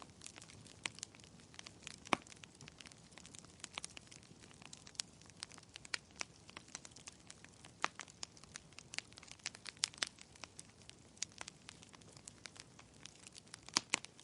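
Fire crackling in a fireplace: a constant soft hiss with many irregular sharp pops, the loudest about two seconds in and near the end.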